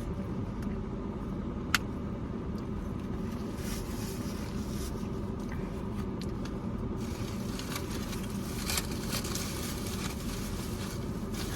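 Steady low rumble of a motor vehicle running, with a faint even hum, one sharp click about two seconds in, and light crackling and rustling over the second half.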